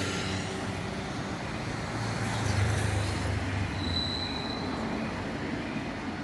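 A vehicle engine running with road noise. The low hum swells about two seconds in, then eases, and a short high beep sounds near the middle.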